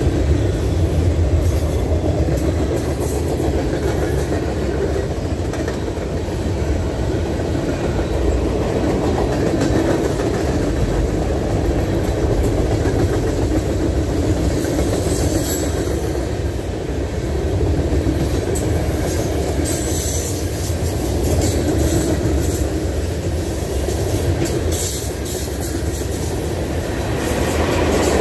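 Norfolk Southern freight cars rolling past: a steady rumble of steel wheels on rail, with scattered brief clanks and clicks.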